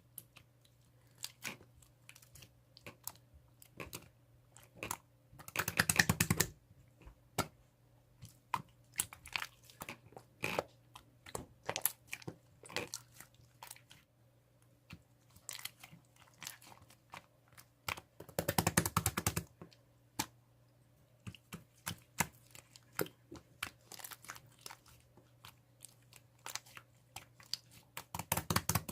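Slime being pressed and stretched by hand, giving many separate sharp clicks and pops, with three bursts of rapid crackling: one about a fifth of the way in, one about two-thirds in, and one at the very end.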